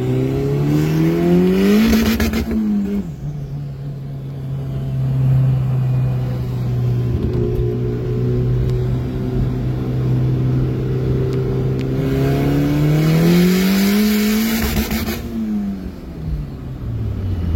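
Turbocharged car engine with a hood-exit exhaust, climbing in pitch with a rushing hiss, then dropping to a steady note for several seconds. It climbs again with the same hiss and falls away near the end.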